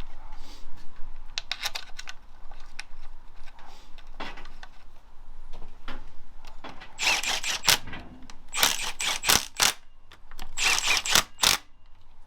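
Hand tools and metal engine parts being handled: scattered clicks and knocks, then three short runs of rapid clicking from about seven seconds in.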